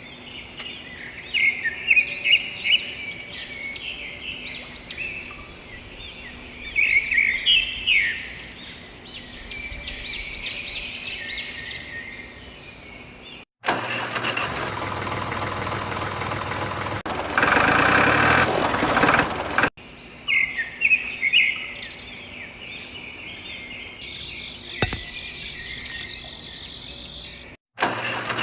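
Small birds chirping in quick, repeated calls. About halfway through they are cut off by roughly six seconds of a louder, steady, noisy mechanical sound, and then the chirping returns.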